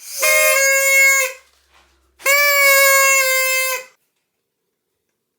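A blown toy noisemaker sounding two long steady notes, each well over a second, the second a little longer.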